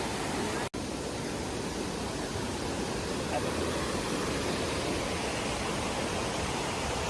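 Steady rushing of a rainforest creek flowing over rocks, an even wash of water noise, with a momentary cut-out under a second in.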